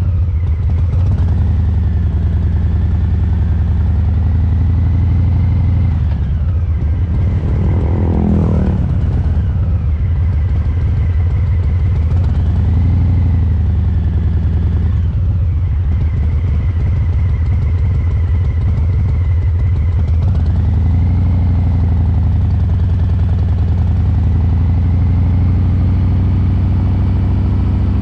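Harley-Davidson Breakout 114's Milwaukee-Eight V-twin running through Cobra Neighbor Hater slip-on mufflers while riding, with a steady, low, loping exhaust note from fuel-injection tuning for the three-beat (sanbyoshi) rhythm. A brief sweeping sound rises and falls about eight seconds in.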